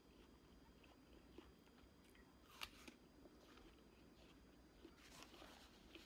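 Near silence with faint chewing of fruit: soft wet mouth clicks and one sharper click about two and a half seconds in.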